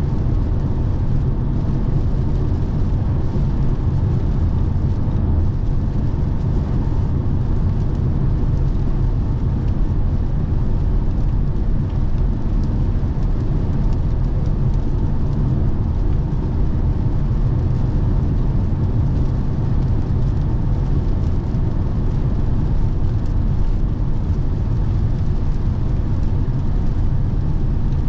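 Steady low rumble of tyre and wind noise from a 2017 Lexus NX 300h hybrid SUV driving at motorway speed, with no change in pitch or level.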